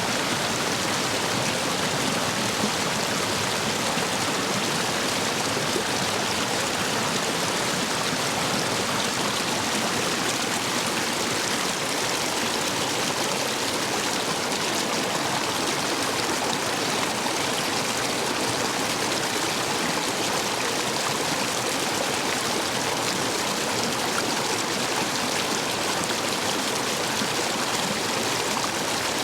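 Stream water rushing steadily through and over a line of stepping stones, a full, even flow swollen by recent heavy rain.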